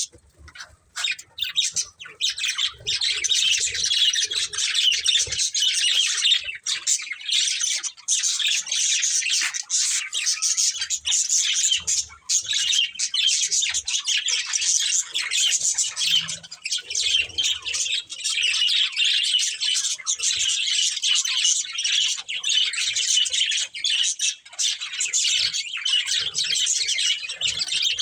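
Several budgerigars chirping and chattering continuously, a dense warbling of quick high chirps with squawks mixed in.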